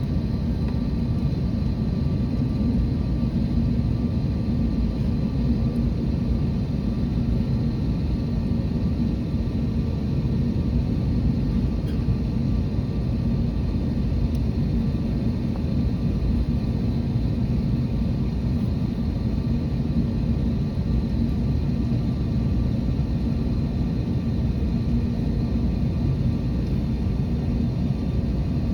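Airbus A321neo jet engine noise: a steady, unchanging low rumble with faint steady hums laid over it.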